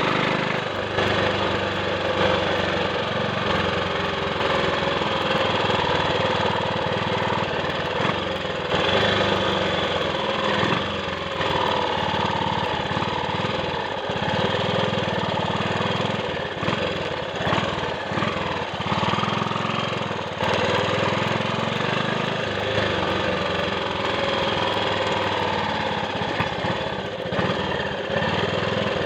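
Triumph Sports Cub's single-cylinder four-stroke engine running steadily under way, its note dipping briefly a few times.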